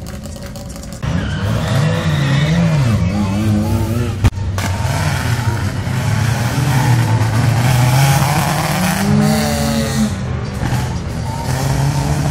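A rally car's engine revving hard as it drives by, its pitch rising and falling with the throttle and gear changes. There is a single sharp crack about four seconds in.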